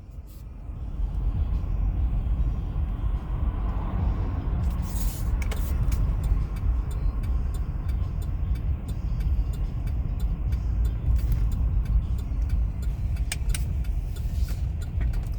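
Steady low road and engine rumble heard inside a moving truck's cabin, coming up about a second in, with a few light clicks and rattles.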